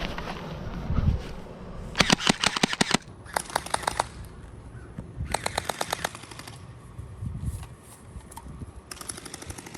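Gel blasters firing on full auto in four rapid bursts of clicking shots, the first about two seconds in and the last running into the end.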